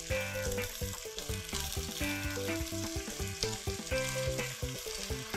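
Clams and basil leaves sizzling in a hot wok as they are stir-fried with a spatula, over background music with a repeating melody.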